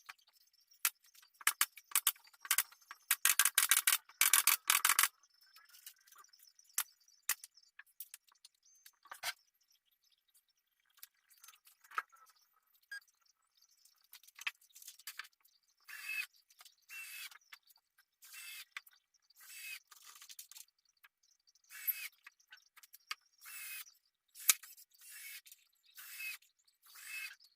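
Handwork noises on a surface. Scattered clicks and a dense crackling stretch come first, then regular scraping strokes about once a second in the second half.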